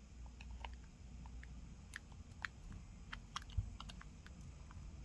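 Faint, irregular small clicks and taps of tools and small parts being handled while a phone is reassembled, a few louder ticks in the middle, over a low steady room hum.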